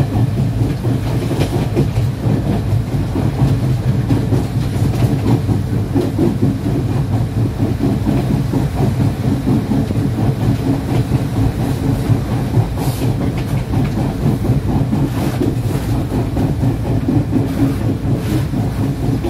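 Passenger train carriage running along the rails, heard from its open doorway: a steady low rumble of wheels on track, with a few rail-joint clicks in the later part.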